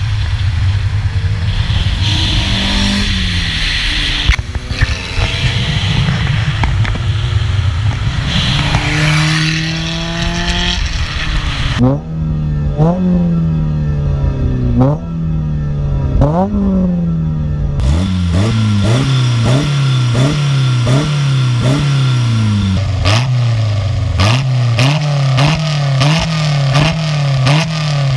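Alpine A110 1600S rally cars' engines running as they drive past. After a cut about twelve seconds in, a parked Renault Clio RS is revved in repeated blips through its exhaust, each one rising and then falling in pitch. After another cut about six seconds later, the A110's rear-mounted four-cylinder engine is revved in quicker, shorter blips.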